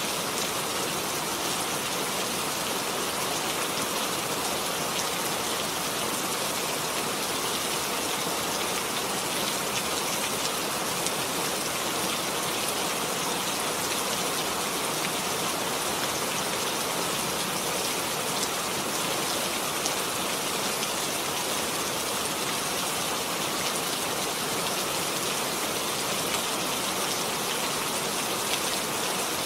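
Steady rain falling, an even hiss with small drop patters throughout.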